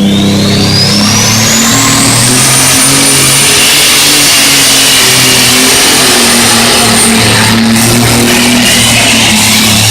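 A John Deere pulling tractor at full throttle under load, its turbocharger whine climbing over the first two seconds or so and then holding high and steady. Music from the PA plays underneath.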